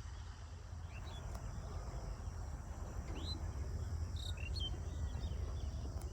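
Crickets trilling steadily in a high, even drone, with a few short bird chirps scattered through and a low rumble underneath.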